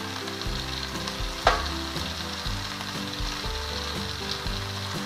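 Bottle gourd leaves and vegetables sizzling steadily in a pan, with one sharp click about a second and a half in, over background music of held notes.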